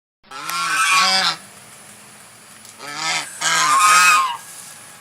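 Domestic goose honking: two honks, a pause, then three more in quick succession.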